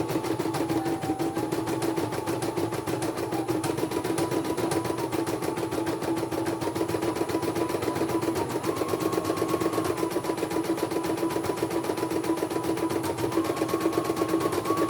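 Computerized embroidery machine stitching: a fast, even run of needle strokes over a steady motor hum, with a higher whine that steps up and down in pitch every few seconds.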